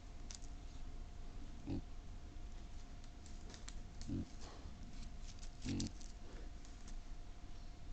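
Wild boar grunting: three short low grunts a second or two apart, with scattered sharp clicks and snaps around them.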